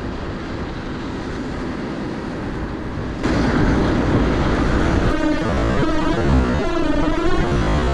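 Wind rushing over the microphone of a moving bike. About three seconds in, the sound jumps louder and music with wavering synthesizer-like tones comes in.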